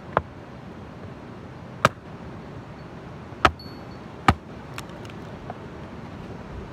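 Wood being chopped or split: four loud, sharp strikes about a second apart with a fainter knock after them, over the steady rush of a waterfall.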